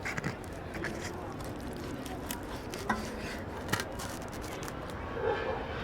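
Steady background bustle with a few scattered sharp clicks and clinks, and a faint voice near the end.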